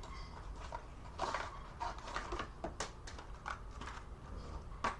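Handling noise from taking a small HO scale model railroad car out of its box: irregular rustles, scrapes and light clicks of cardboard and plastic packaging, over a low steady hum.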